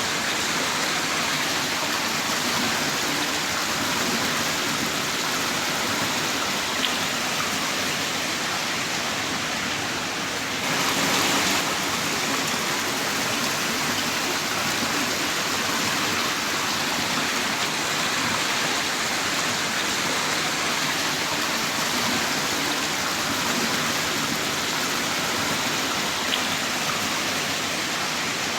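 Heavy rain pouring down in a steady dense hiss, slightly heavier for a moment about eleven seconds in.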